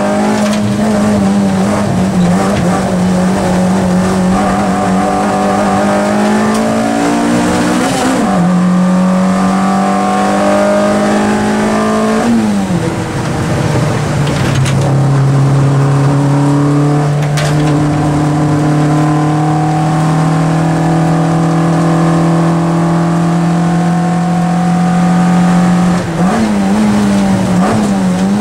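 Peugeot 205 rally car's four-cylinder engine heard from inside the cabin, running hard under load. Its note drops in pitch about 8 seconds in and again around 12 to 13 seconds, holds steady for a long stretch, then rises and wavers near the end.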